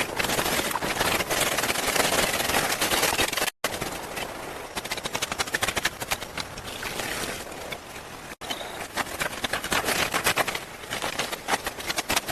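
Rapid, irregular knocks and clicks, many to the second, over a rustling noise, broken by two brief dropouts where the sound is cut.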